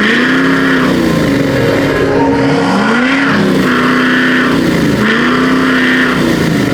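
An engine revved over and over, its pitch climbing, holding briefly and dropping again about every one and a half to two seconds.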